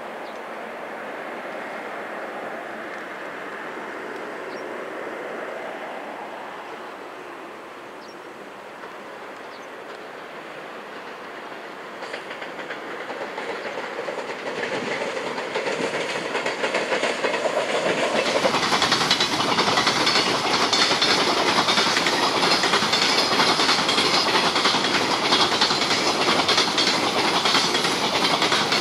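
A JR Freight EF510 electric locomotive hauling a container freight train approaches, growing steadily louder from about twelve seconds in. Its container wagons then roll past close by with a continuous clickety-clack of wheels over the rail joints.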